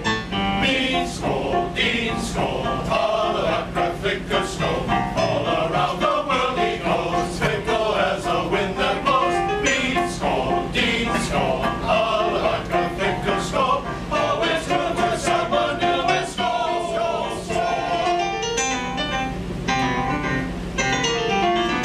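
Male chorus singing in several parts, over a steady low hum.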